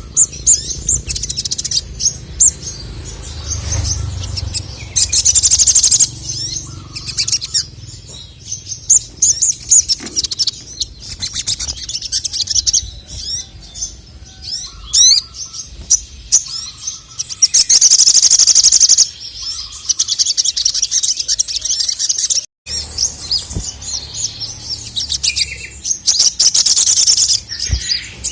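Male sogon (sogok ontong, the little spiderhunter) singing prolifically: a steady stream of rapid, high-pitched chirps and trills, broken by several loud, dense rattling trills.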